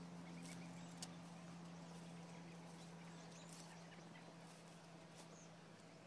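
Near silence: a faint steady low hum, with a few faint, brief high chirps from distant birds scattered through it.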